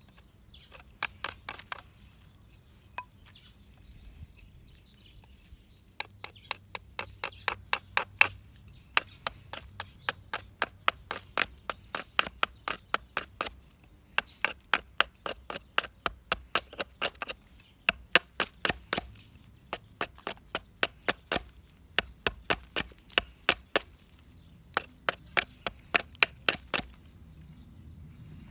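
Quick, sharp chopping strikes of a hand tool into hard, resinous dead pine (fatwood), about four or five a second, in runs of a few seconds broken by short pauses.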